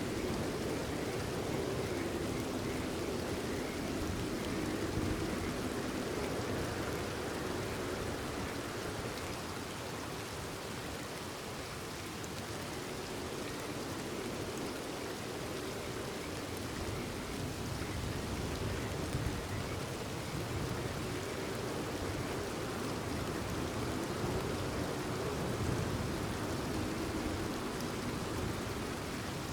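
Steady, even rainfall, a continuous hiss of rain falling on surfaces.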